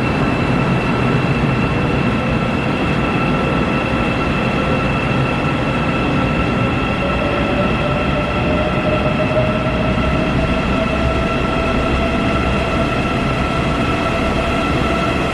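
Shinbundang Line metro train running, heard from inside the car: a steady rumble and rail noise with a constant high whine, and a motor tone that rises slightly in pitch about halfway through.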